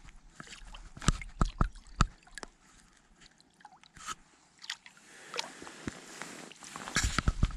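Wet handling sounds of a freshly caught brown trout: irregular slaps, squelches and knocks, bunched about a second in and again near the end, with a quieter spell between.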